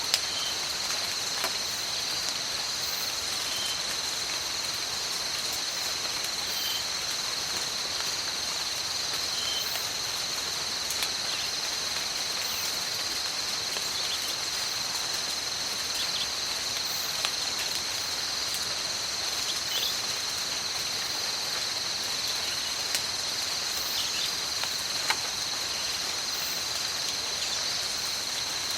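Tropical rainforest rain: steady rainfall with a continuous high-pitched insect chorus holding two steady tones, and scattered sharp drips.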